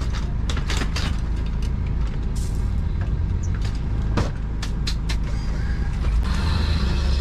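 A knife tapping on a cutting board, a quick run of strokes at first, then a few scattered ones, over a steady low motor rumble that gets louder near the end.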